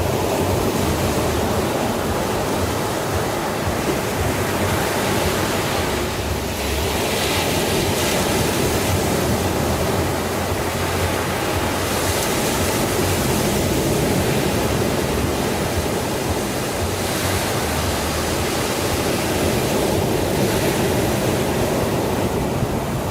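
Sea surf washing in steadily, with a wave swelling louder every four to five seconds.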